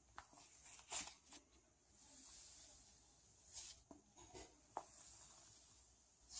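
Cloud slime being squished and stretched by hand: soft rustling and crackling, with louder crackles about a second in, a little past halfway, and at the very end.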